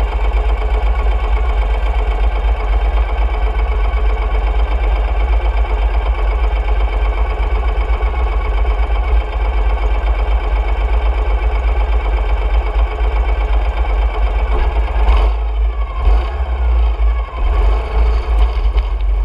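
Ural sidecar motorcycle's boxer-twin engine running, with a strong deep rumble under a steady engine note. About fifteen seconds in the note shifts, with gliding rises and falls in pitch and brief dips in loudness.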